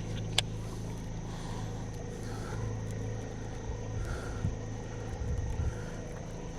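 Steady low motor hum on a bass boat, with a single sharp click about half a second in.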